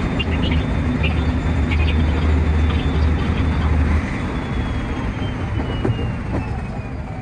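JR West 223 series electric train running, heard from the driver's cab: a steady low hum with rail clatter and clicks. The hum drops away about four seconds in, and a thin whine starts falling slowly in pitch near the end as the train slows toward the next station.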